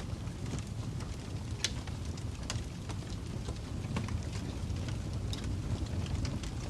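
Wood fire burning in a fireplace, with logs crackling and popping at irregular intervals over a steady low rumble of the flames.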